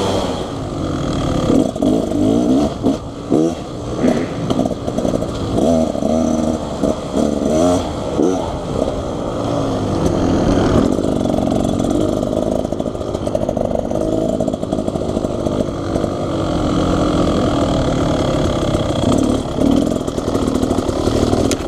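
Beta Xtrainer 300 two-stroke dirt bike engine revving up and down continuously while riding a trail, with clattering knocks from the bike over rough ground.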